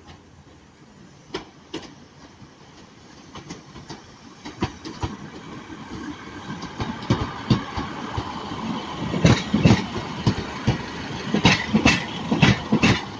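Class 150 diesel multiple unit pulling out of the station, its wheels clicking and knocking over rail joints and points. The rumble rises and the clicks come louder and faster from about halfway through, loudest near the end.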